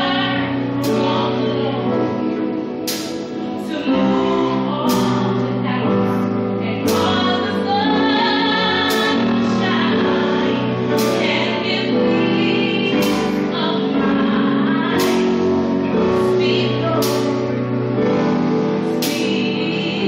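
Choir singing a gospel song, with a sharp percussive hit about every two seconds.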